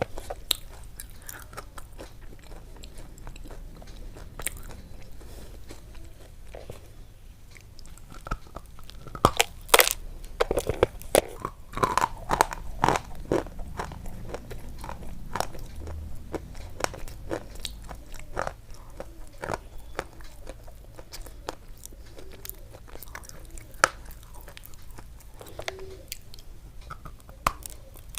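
Close-up crunching and chewing: irregular sharp crunches, busiest around ten to thirteen seconds in, over a low steady hum.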